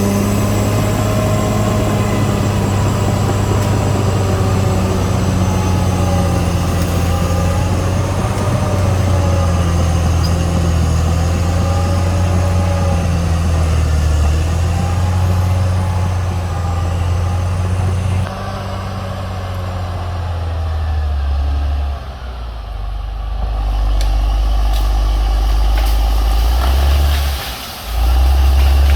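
A Caterpillar D6R XL bulldozer running, with a deep, steady engine drone and wavering higher whines above it. The higher sound falls away about two-thirds of the way through, and the drone dips briefly twice near the end.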